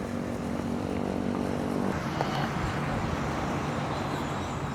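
A vehicle engine running amid outdoor background noise. Its steady hum drops out about two seconds in, leaving the general din.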